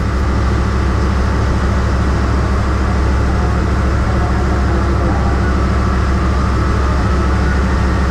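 Steady low rumble of a moving passenger train, heard from inside an economy coach of the KA Bengawan.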